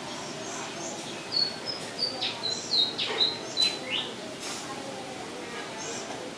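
Small birds chirping: a quick run of short, high whistled notes and downward-sweeping calls in the middle, with fainter chirps around them, over steady background noise.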